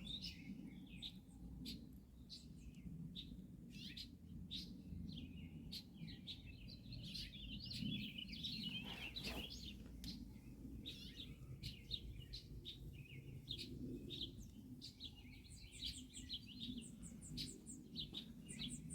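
Birds chirping faintly in many short, high calls over a low, steady background rumble.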